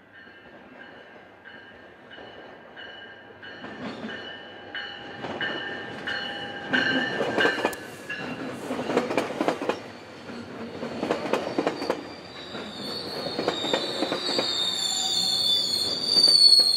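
Metrolink commuter train approaching and passing close, its wheels clacking over the rails and the rumble growing louder. A crossing bell rings steadily at about two strikes a second through the first half. From about two-thirds of the way in, a high-pitched wheel squeal builds and is loudest near the end.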